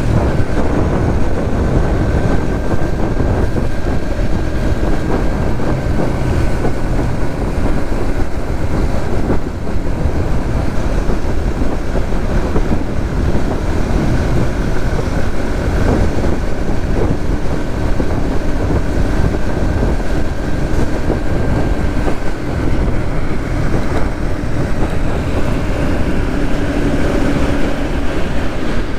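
Suzuki GSX-S150's 150 cc single-cylinder engine running at a steady pace under way, mixed with heavy wind rush and road noise on the microphone.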